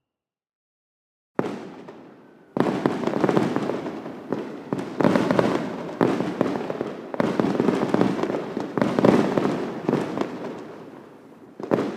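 Fireworks: after a second and a half of silence, a single bang, then from about two and a half seconds in a dense, continuous barrage of overlapping booms and crackles. A last burst comes near the end.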